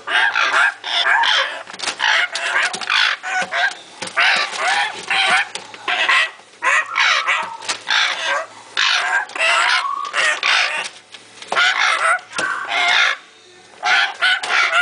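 African grey parrot chicks calling: a loud, continuous chorus of short raspy calls in quick succession, with a brief lull near the end.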